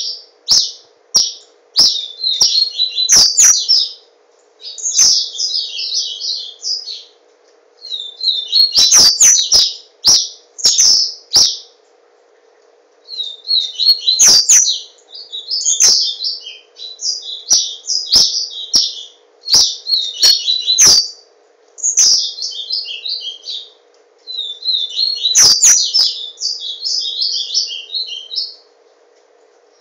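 A caged papa-capim seedeater singing: rapid high twittering song phrases of one to three seconds, repeated with short pauses, with sharp clicks in between. A faint steady hum lies underneath.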